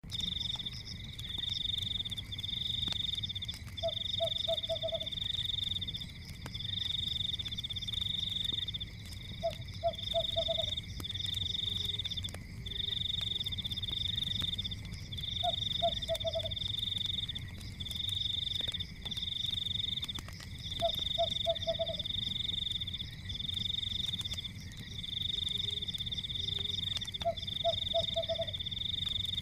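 A night chorus of frogs: a high-pitched trill repeats in bursts of about a second with only short gaps, and a lower call of four quick pulses comes about every six seconds. Underneath runs a steady low rumble with faint crackles, typical of a wood fire.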